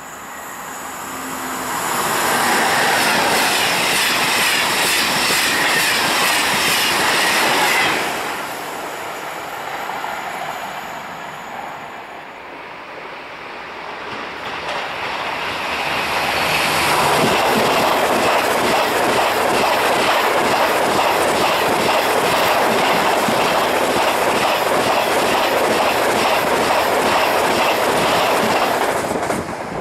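High-speed single-deck TGV passing at speed: a rising rush as it approaches, then a long loud roar of wheels on rail with rapid rhythmic clicking. It cuts off sharply near the end. A first loud passage of rail noise early on dies away before the TGV arrives.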